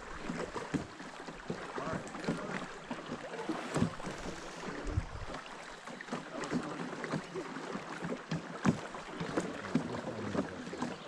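Sounds of a small boat drifting on a river: water moving around the hull, with scattered light knocks and clicks throughout.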